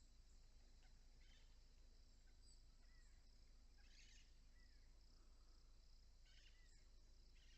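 Faint steady high trilling of crickets, with a few short bird chirps and several brief raspy calls over it.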